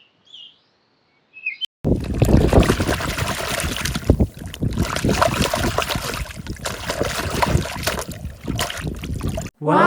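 Water splashing and spraying in an uneven, crackling rush over toy vehicles being washed. It starts after a short near-silent pause, and a loud falling-pitched tone cuts in at the very end.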